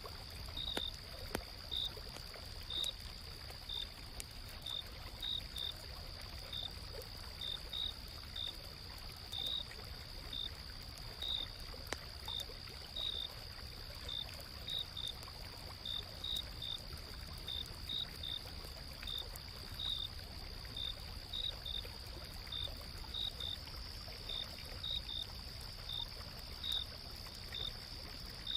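Autumn night insects calling: a steady high trill with short chirps repeating irregularly about twice a second, over the low, steady rush of a gently flowing stream, with a few faint campfire crackles.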